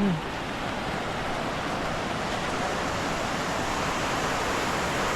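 Steady rush of water, an even noise that holds at the same level throughout.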